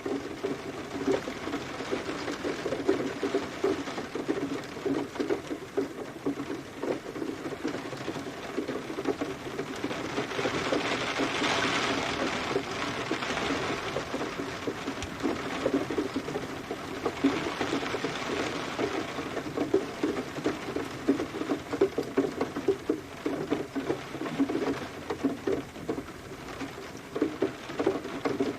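Steady rain, with a dense, irregular patter of drops tapping on a surface. The hiss of the rain swells about a third of the way in, and again a little past the middle.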